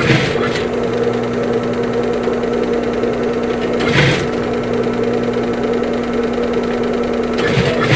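Sewing machine running steadily while the replacement zipper is stitched onto the bag, a constant motor hum with brief louder bursts near the start, about four seconds in and near the end.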